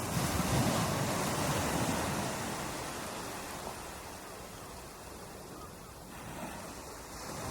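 Ocean surf on a shore: a wave breaks just at the start and its wash fades slowly over several seconds, then the next wave builds near the end.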